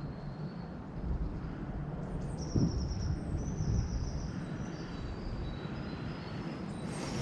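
Low rumble of wind on the microphone in open woodland, with small birds chattering and singing high and thin, and one soft bump about two and a half seconds in.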